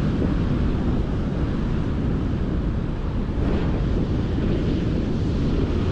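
Strong wind buffeting the microphone, with the steady wash of heavy ocean surf beneath it.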